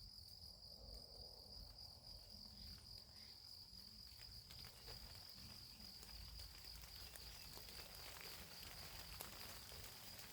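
Faint, steady high-pitched trill of insects, like crickets, with a few light scattered ticks in the second half.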